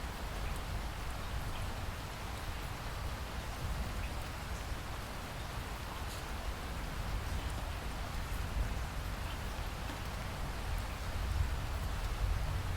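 A rainstorm: rain falling steadily, with scattered sharp drop ticks over an even hiss and a low rumble underneath.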